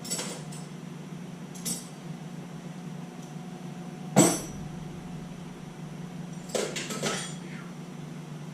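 Hand tools and metal fittings clinking and knocking as a turbo oil feed line fitting is worked with a wrench. There is a handful of separate sharp clinks, the loudest about four seconds in and a quick cluster near the end, over a steady low hum.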